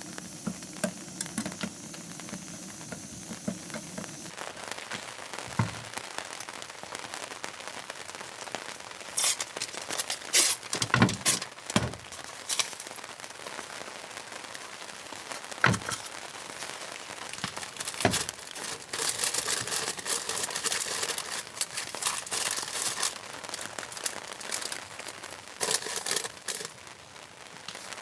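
Camp cooking and food preparation: a pot sizzles with a steady hiss for the first few seconds, then comes crinkling and rustling broken by sharp clattering knocks of utensils and cookware.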